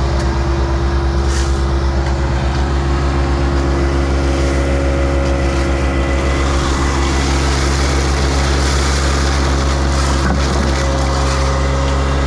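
Heavy equipment engine running steadily at a constant speed, loud and close.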